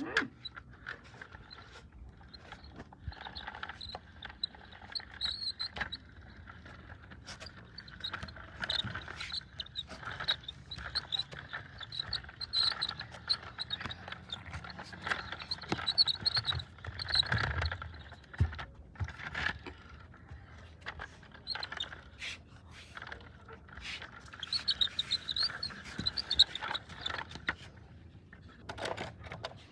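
Plastic toy vehicles being pushed along the ground: irregular scraping and rattling of small wheels and parts, with many short clicks and knocks.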